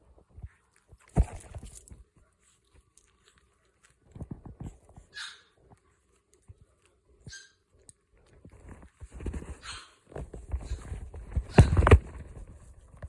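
Boston Terrier puppies giving a few short, high whimpers and yips, among bumps and rustling close to the microphone, the loudest bumps about a second in and near the end.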